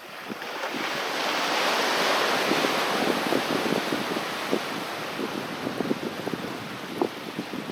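Sea waves washing onto the beach: a surge of surf hiss that swells over the first two seconds or so and then slowly ebbs, over many small crackling splashes.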